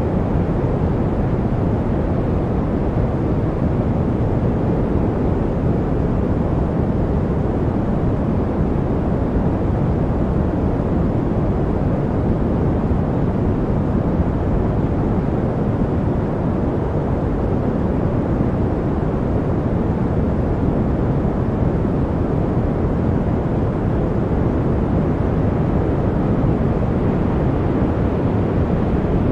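Continuous noise track sold as white noise, steady and unchanging. Most of its weight sits in the low range, so it sounds deep and rumbling rather than hissy.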